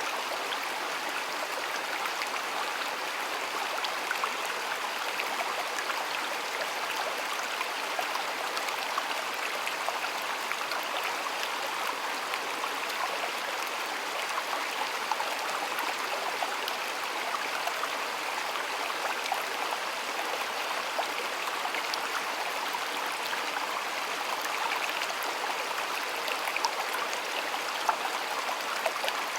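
Water of a small stream flowing and burbling steadily over stones, with small splashes and trickles throughout.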